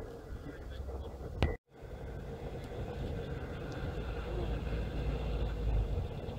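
A car engine running steadily with a low rumble that grows louder toward the end. There is a sharp click and a split-second dropout about one and a half seconds in.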